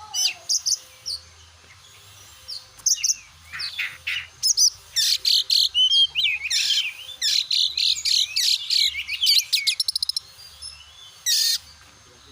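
Oriental magpie-robin (kacer) singing a fast, varied song of whistled and chattering notes, busiest from about four to ten seconds in.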